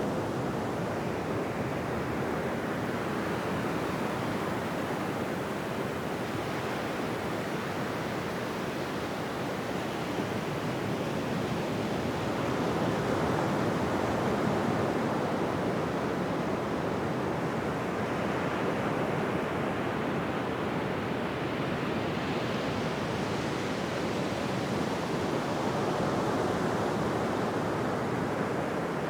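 Ocean surf on a beach: a continuous wash of breaking waves that swells and eases slowly, rising once in the middle and again near the end.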